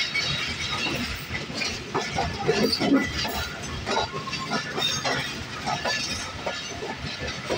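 Passenger train coaches rolling slowly, their steel wheels clacking and knocking irregularly over the rail joints with a steady rumble underneath, heard from an open carriage door.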